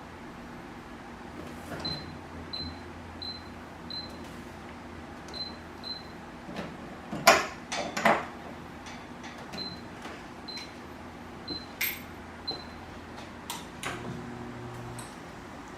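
Treadmill control console beeping at button presses, about ten short high beeps, with two loud clacks around the middle. A low hum comes in near the end.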